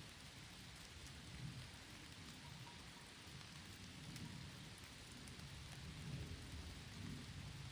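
Steady, faint rain falling, with scattered light drop ticks and a low rumble underneath.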